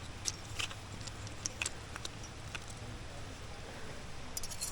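Sparse light clicks and taps over a steady low background rumble, then a quick run of metallic clinking just before the end, like climbing hardware such as carabiners and nuts knocking together on a harness.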